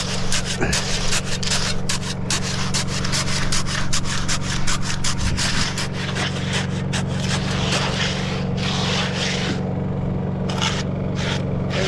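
Quick, repeated scraping strokes of a hand tool working fresh concrete, several a second, over the steady drone of an idling engine.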